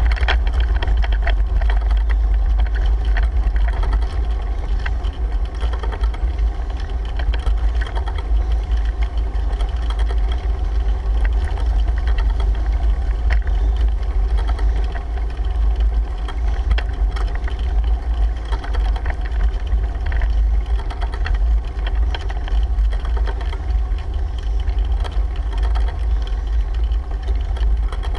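Wind rumbling steadily over the microphone of a GoPro on a moving bicycle.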